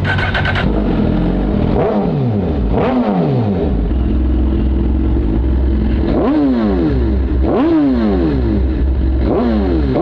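Suzuki GSX-R1000R inline-four with an Arrow exhaust, idling and blipped several times, each rev rising quickly and falling back to idle.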